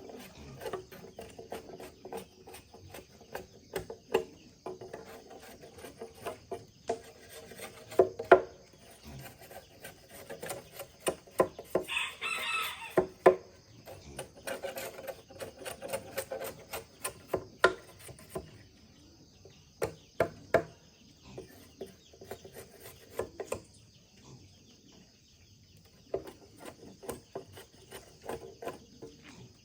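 Irregular sharp knocks and taps, with a rooster crowing once about twelve seconds in.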